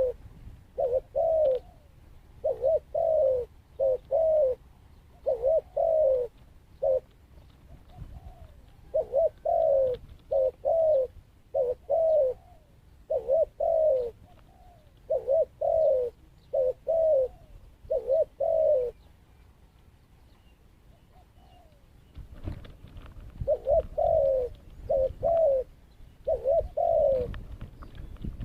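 Dove cooing: repeated phrases of two or three short, falling coos, with a pause of a few seconds in the later part. A low rumbling noise comes in under the last few phrases.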